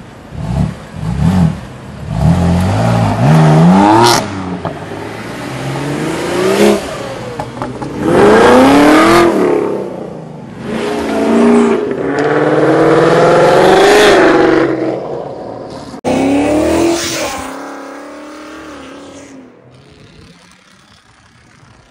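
A car engine revved hard again and again, its pitch rising and falling with each rev, then dying down near the end.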